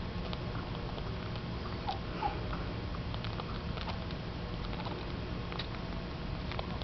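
Pet budgerigar eating seed: scattered small clicks of the beak cracking and husking seeds, over a steady low hum, with two short faint squeaks about two seconds in.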